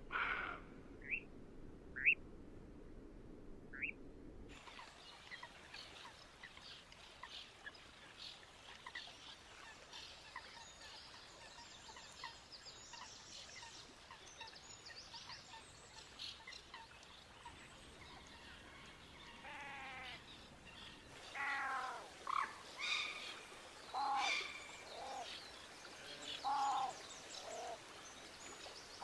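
Wild birds calling and singing: three short rising chirps first, then a dense chorus of faint, high chirps and song. In the last third, louder calls come in short, repeated falling series.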